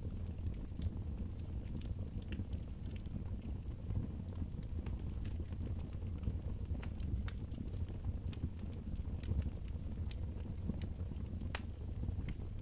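Wood fire burning in a fireplace: a steady low rumble with scattered sharp crackles and pops, the loudest pop near the end.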